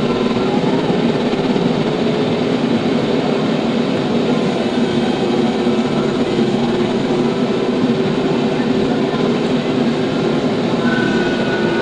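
TYM T574 tractor's diesel engine running steadily under way, a continuous even drone.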